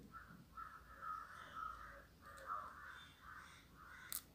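A bird calling faintly in a quick series of short, harsh calls, about eight in a row. There is one sharp click near the end.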